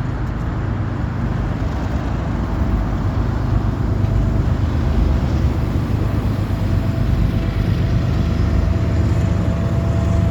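Train running with a steady low rumble, a faint steady whine joining about two-thirds of the way in.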